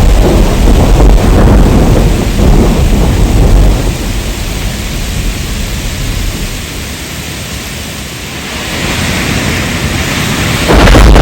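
Heavy rain with a deep rumble of thunder. The rumble dies away about four seconds in, leaving the hiss of the rain, and a loud rumble cuts back in suddenly near the end.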